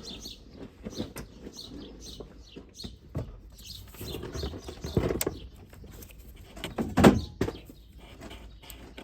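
Stuck radiator coolant pipe being yanked and wrenched by hand, giving irregular knocks and creaks, the loudest one shortly before the end.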